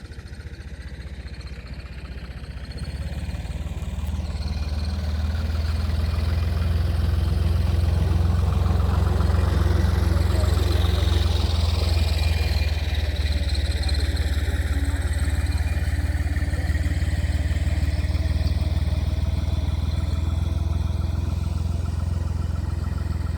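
A motor engine running steadily, growing louder over the first few seconds and then holding, with a deep low hum; it cuts off suddenly at the end.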